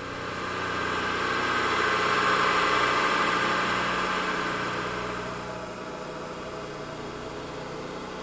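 Electronically transformed recording of a plate compactor's engine: a steady engine-like drone that swells up over the first few seconds, peaks about three seconds in, then eases back to a lower steady level.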